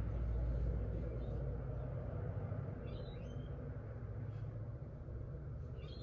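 Garden ambience: a steady low rumble with a few short bird chirps, about three seconds in and again near the end.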